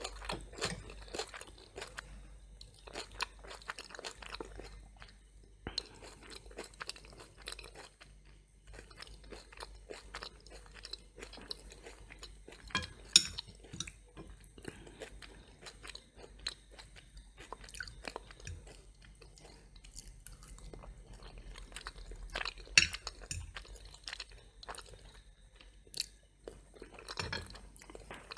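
Close-miked chewing with crisp crunches of crunchy toast, a string of small clicky crunches broken by three sharp, louder bites.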